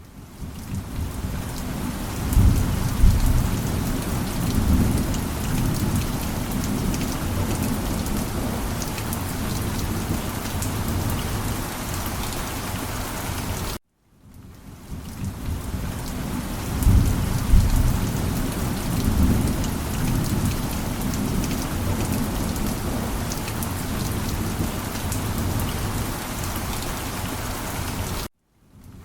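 Steady heavy rain with deep rolling thunder rumbles swelling about two seconds in and again about sixteen seconds in. The sound cuts out briefly and fades back up about every fourteen seconds, a short repeating loop.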